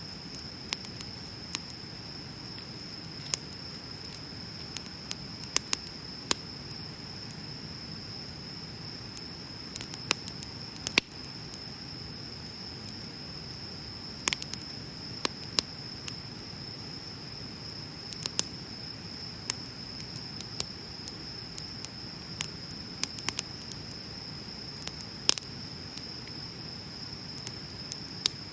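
Wood bonfire crackling, with sharp pops and snaps at irregular intervals over a low steady hiss of burning. A steady high-pitched trill of crickets runs underneath throughout.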